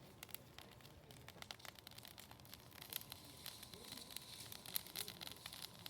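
Faint, irregular crackling and snapping of a small bonfire burning rubbish.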